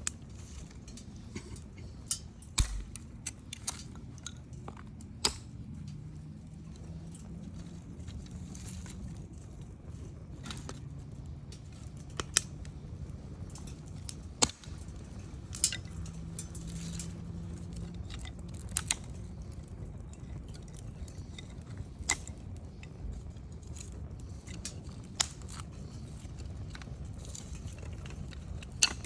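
Wood campfire burning, with sharp crackles and pops at irregular intervals over a low, steady rumble of flame.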